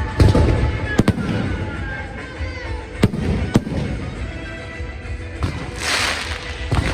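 Fireworks going off: sharp bangs of exploding shells about a second in and again around three seconds in, with whistling rockets gliding in pitch between them and a hissing burst near the end.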